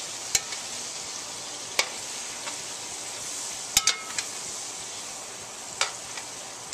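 Chicken pieces and onions sizzling steadily in hot grease in a metal pot while they are stirred with a metal spoon. The spoon gives a handful of sharp clinks against the pot, two close together about four seconds in.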